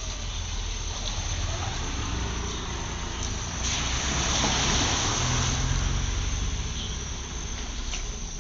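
Floodwater running across a road: a steady rushing, splashing hiss with a low rumble, swelling louder for a few seconds in the middle and easing off again.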